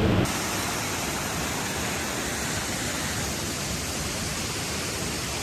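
Steady rush of falling water from a waterfall. A louder, deeper noise cuts off abruptly in the first moment.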